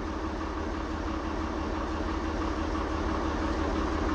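Tractor engine running steadily with a fast low throb, slowly growing a little louder.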